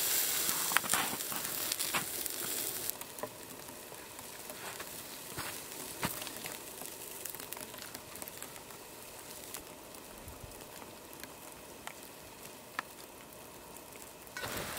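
Food sizzling and frying in a cast iron pan over a campfire, a loud steady hiss that drops off about three seconds in to a fainter hiss with scattered small ticks.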